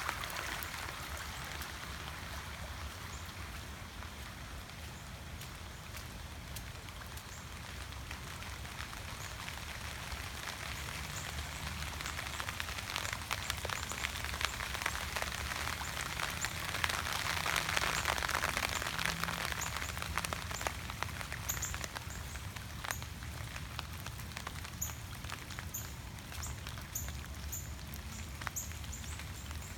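Steady rain falling, with many separate drops ticking on a surface. The downpour swells louder about halfway through, then eases again.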